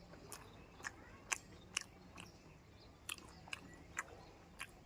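Close-up chewing of a crisp fried eggplant fritter (baingan chop): a dozen or so irregular soft crunches and mouth clicks.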